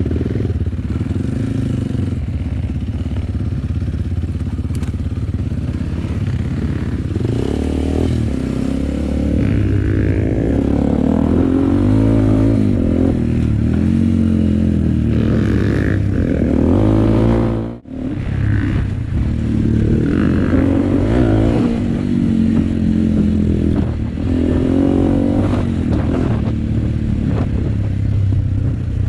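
Enduro motorcycle engine running while the bike is ridden along a trail, its pitch rising and falling with the throttle. The sound cuts out briefly about two-thirds of the way through.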